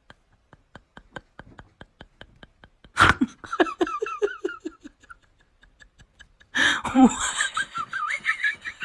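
A person laughing hard in rapid runs of short falling 'ha' syllables. It starts faint and clicking, breaks out loudly about three seconds in, and comes again louder about six and a half seconds in.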